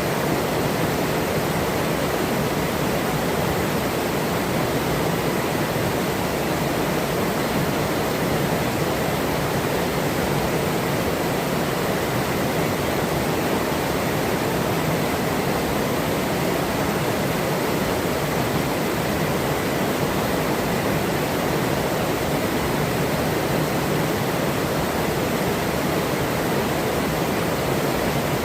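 River water flowing steadily over rocks: a dense, even rush of running water with no breaks.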